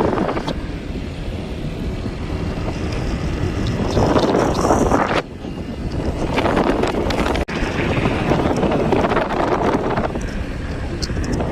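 Wind buffeting the microphone, a steady rushing rumble with sudden short drops about five seconds in and again about seven and a half seconds in.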